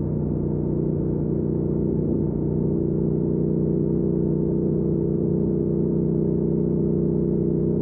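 2019 Triumph Speed Twin's 1200 cc parallel-twin engine running at a steady cruise through a Weslake Shorty Pro exhaust. The engine note holds even, going slightly higher after about two seconds.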